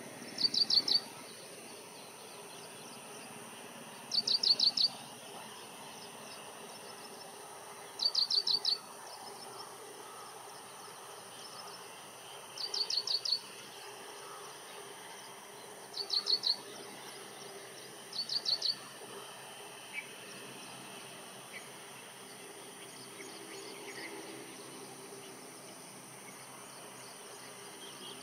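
A bird calling in short bursts of four or five quick high notes, repeated every two to four seconds, over a faint steady insect drone.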